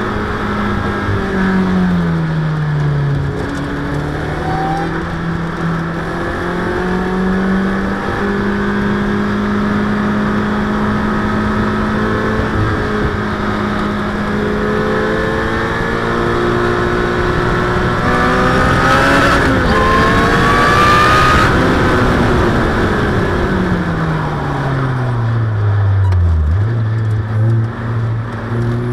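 Supercharged Ariel Atom's four-cylinder engine heard from the open cockpit while lapping a track. Its note falls as it lifts and changes down near the start, climbs and holds through the middle, falls again toward the end for a slower corner, then picks up once more under power.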